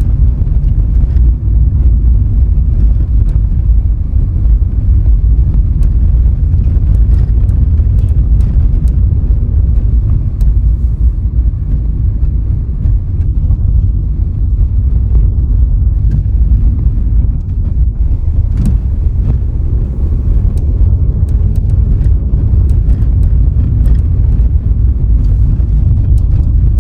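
A car driving along a road: a steady, loud, low rumble of road and vehicle noise, with a few faint ticks.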